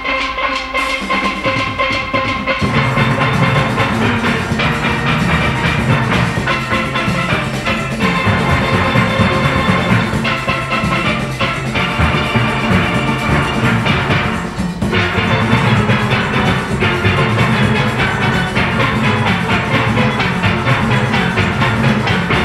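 A full steel orchestra of around forty players playing many steel pans together over a driving drum and percussion rhythm.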